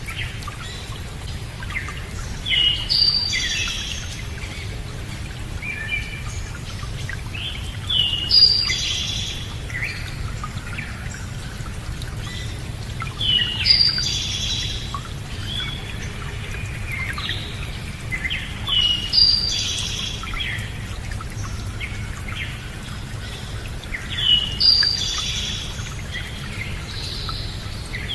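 A songbird singing the same short phrase of chirps and whistles again and again, about every five and a half seconds, with a few softer calls between, over a steady low background rumble.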